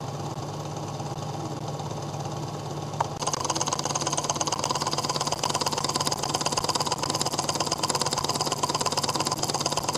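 Small homemade Ross-yoke Stirling engine running with a fast, even mechanical clatter, which grows louder after a click about three seconds in.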